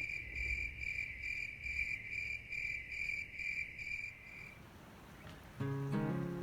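Insect-like chirping, a steady-pitched call repeated about twice a second, which stops about four and a half seconds in. Acoustic guitar music begins near the end.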